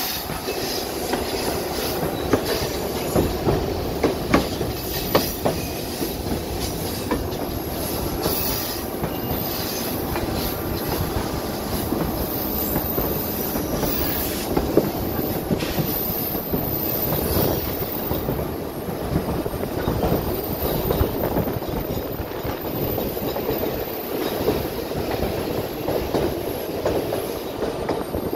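White Pass & Yukon Route passenger train heard from one of its own cars: a steady rumble of wheels on rail with many short clicks over the joints. High wheel squeal joins in around the middle as the train takes a curve onto a trestle.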